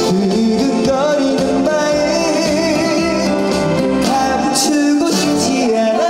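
Male trot singer singing a song live over instrumental accompaniment, the melody gliding between notes and wavering on held ones.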